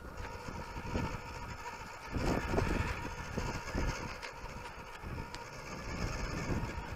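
WPL B-36 RC military truck driving over dirt and gravel: a steady whine from its electric motor and gearbox over an uneven crunching rumble, louder about two seconds in.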